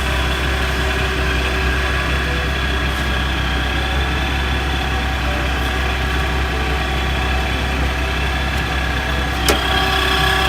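Car engine idling steadily, with one sharp click near the end.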